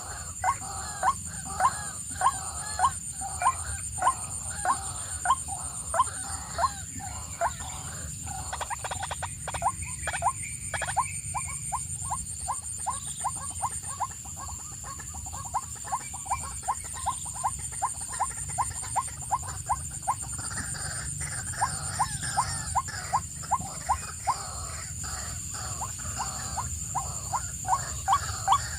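A bird calling over and over in short, sharp notes, about two a second, coming faster in the middle. A steady high-pitched hum runs behind it.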